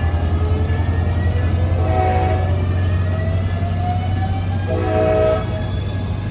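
Coaster commuter train's diesel locomotive running with a low drone and a rising whine, sounding two short horn blasts about three seconds apart. Two short blasts are the signal that the train is about to move forward.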